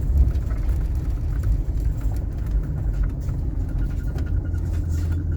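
A 1980s Citation motorhome's engine running, heard from inside the cab as a steady low drone, with a faint thin whine joining about four seconds in.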